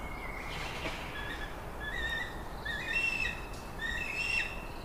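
Birdsong: a run of short whistled chirps, about two a second, over a steady background hiss.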